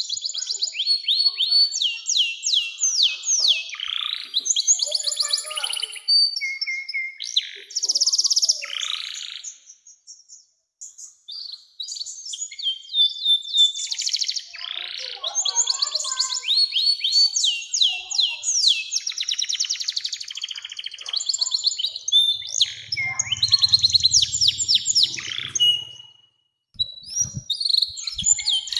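Domestic canary singing long, rapid rolling trills and repeated falling chirps in extended phrases, with a brief pause about ten seconds in.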